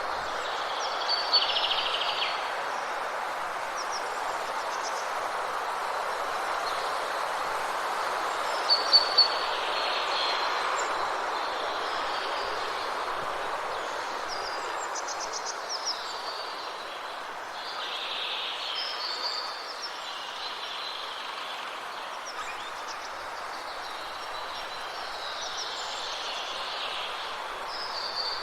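Woodland birds calling, with short high chirps and trills that recur every few seconds over a steady rushing noise bed.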